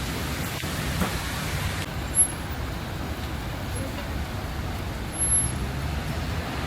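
Road traffic on a rain-soaked street: vehicle engines running low under a steady hiss of rain, with a brief sharp sound about two seconds in.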